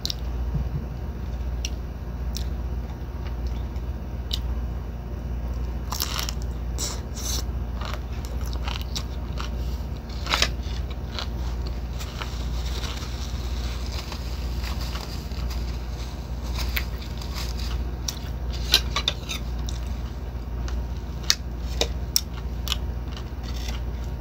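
Close-up chewing and crunching of crisp-fried tortillas, in scattered bursts of crackly bites, with occasional fork scrapes and clicks on a ceramic plate, over a steady low hum.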